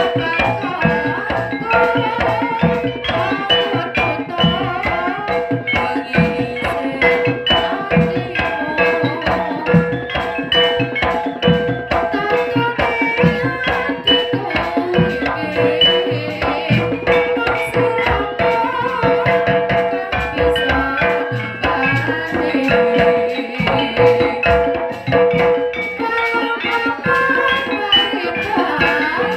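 Live jaranan gamelan music: hand drums beating a busy rhythm under short pitched metallophone notes and a steady held tone.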